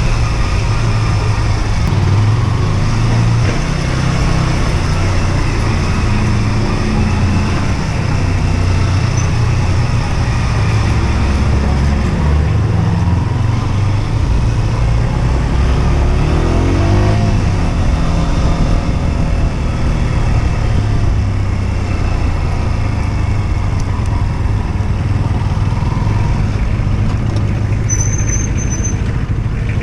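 Husqvarna Svartpilen 125's single-cylinder four-stroke engine running while the bike is ridden, heard over steady road and wind noise. The engine note shifts up and down with throttle and gear changes, with a brief rise and fall in pitch about halfway through.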